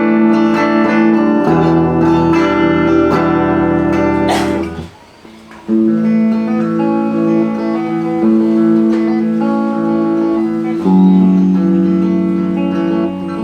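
Electric guitar played through a Marshall MG30DFX solid-state amplifier that is being tested after a repair. Held, ringing chords stop briefly about five seconds in, just after a short scrape up the strings, and then resume.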